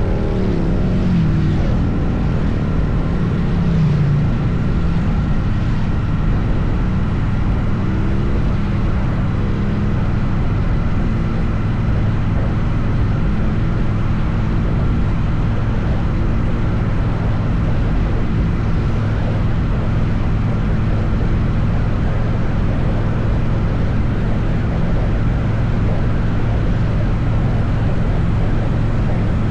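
Triumph Bonneville T100 motorcycle engine running at highway cruising speed, with wind and road noise. Its pitch drops over the first couple of seconds, then holds steady.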